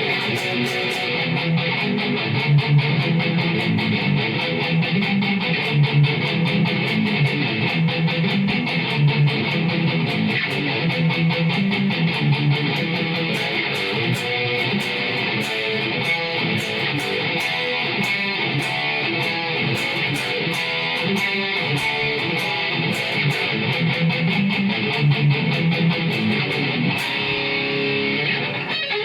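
Electric guitar played through a distorted Zoom G5N multi-effects patch, a Jackson JS32RT Dinky into a Marshall MG30 FX amp, playing continuous riffs heavy on low notes.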